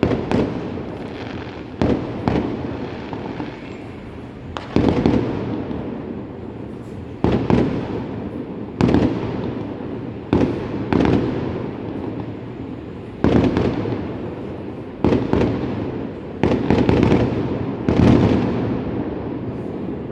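Aerial fireworks bursting: a dozen or so sharp booms at uneven intervals of one to two seconds, some in quick pairs, each trailing off in a rolling rumble.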